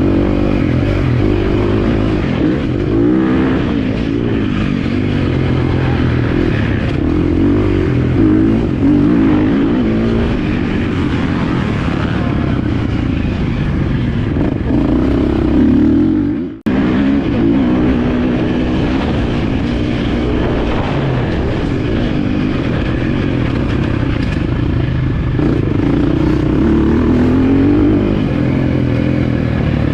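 Motocross bike engine running hard and revving up and down as it is ridden, the pitch rising and falling continually. The sound cuts out for a moment about halfway through, then carries on.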